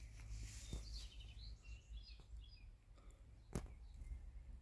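Faint bird chirps, a quick run of short high calls in the first couple of seconds, over a low steady rumble. A single sharp click about three and a half seconds in.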